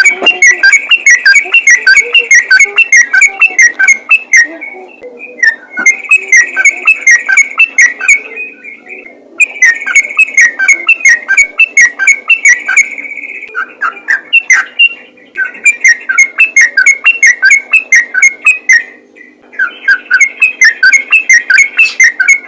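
Yellow-vented bulbul singing in rapid-fire runs of loud whistled notes, about five a second, broken by short pauses near 5, 9 and 19 seconds in.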